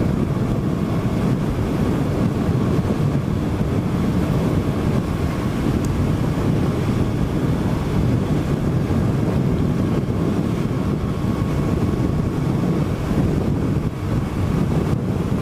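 Wind rushing steadily over the microphone of a rider on a 2018 Suzuki GSX-S1000 motorcycle, with the bike's inline-four engine running at a steady cruise beneath it.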